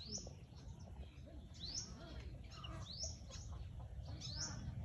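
A bird calling: a short high chirp rising in pitch, repeated about every second and a half, over a steady low background rumble.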